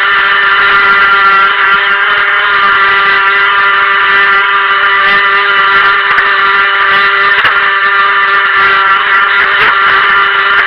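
Helion Rivos RC boat's stock brushed electric motor running at a steady speed: a constant, high, even whine with a few brief knocks about seven and nine and a half seconds in.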